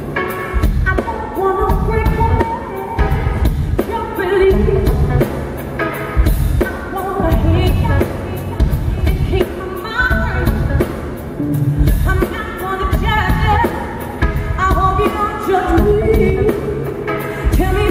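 Live soul song: a woman's lead vocal singing over a band with a heavy bass and a steady beat.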